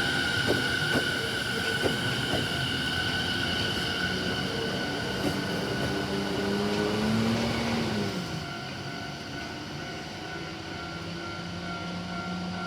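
Yokosuka Line electric commuter train passing the level crossing, its wheels clicking over rail joints in the first few seconds. A motor tone rises slightly, then falls and fades about eight seconds in as the train goes by.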